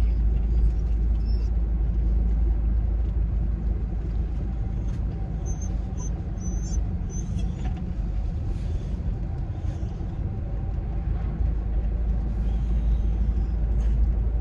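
Steady road and engine noise of a car being driven, heard from inside the cabin as a low rumble. A few faint high squeaks come about halfway through.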